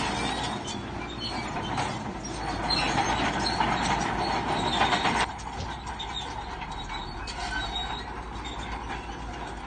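Crawler bulldozer working, its steel tracks squealing and clanking over the engine noise; the sound drops suddenly about five seconds in.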